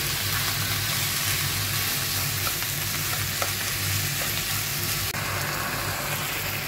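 Sliced pork, cabbage and green peppers sizzling as they are stir-fried in a frying pan, a steady hiss with a few faint clicks of chopsticks turning the food. The sound drops out for an instant about five seconds in, then the sizzling carries on.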